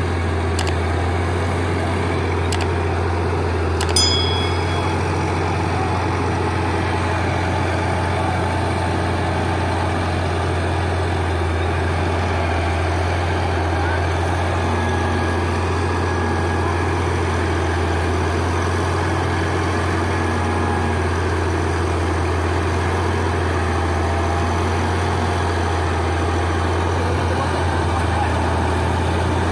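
A heavy vehicle engine runs steadily at a constant low drone. About four seconds in there is one sharp metallic clink that rings briefly, after a couple of fainter clicks.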